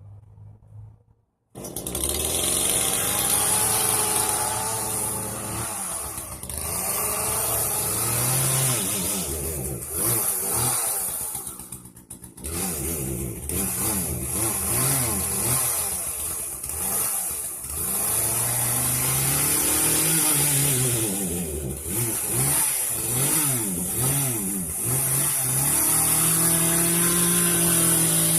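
Chainsaw running and revving up and down again and again while cutting up pruned branches; it comes in suddenly about a second and a half in.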